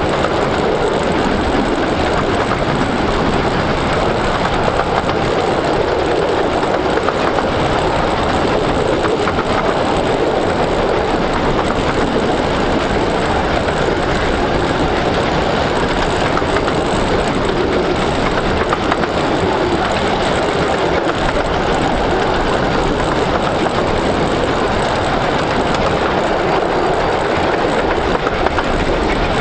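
Miniature-gauge train hauled by a 4-8-2 steam locomotive, running steadily along the line: a continuous, loud noise of wheels on rails and the moving train.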